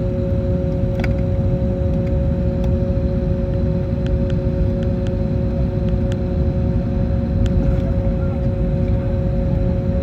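Steady cabin rumble and hum inside an Airbus A321neo with its Pratt & Whitney PW1100G engines running at idle before take-off, with a few faint clicks.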